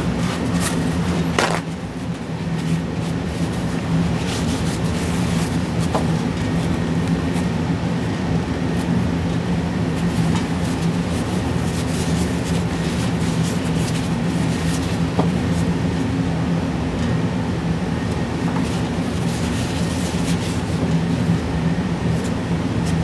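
Steady, even machine hum with a low drone, with a few faint clicks on top.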